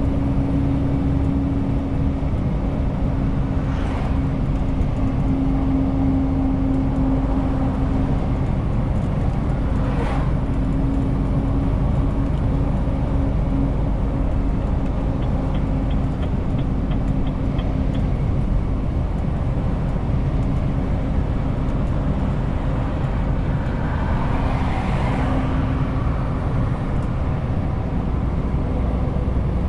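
Renault T520 truck's six-cylinder diesel engine running steadily while hauling a 40-tonne load, a steady drone with a strong hum that fades after about 18 s and returns near 25 s. There is a sharp click about 4 s in and another about 10 s in, and a short run of light, evenly spaced ticks in the middle.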